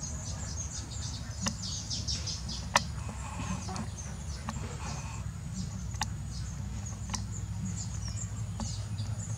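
Small birds chirping: a busy run of short, high chirps, over a steady low rumble. A few sharp clicks break through, the loudest about three seconds in.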